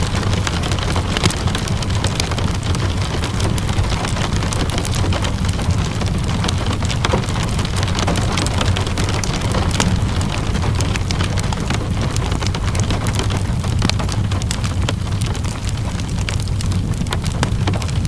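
Steady rain blended with a crackling wood fire: an even hiss scattered with many small sharp pops, over a constant low rumble.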